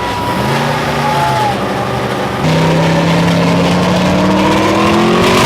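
Car engine revved up and held at high revs from about halfway through, its pitch creeping slowly upward, over a loud general din.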